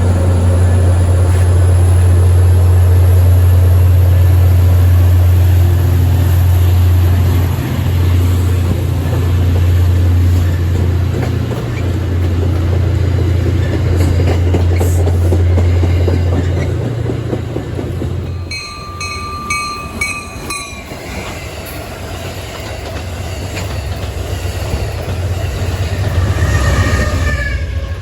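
Train passing on the rails, with a loud steady low drone and rumbling wheel noise that drop away about two-thirds of the way through. Brief high tones follow, and the rail noise builds again near the end.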